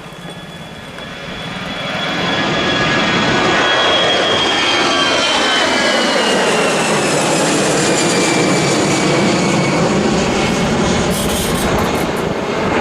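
Alenia C-27J Spartan's twin Rolls-Royce AE 2100 turboprops passing close on the landing approach, growing loud over the first two seconds, then holding loud with a high whine that slowly falls in pitch as the aircraft goes by.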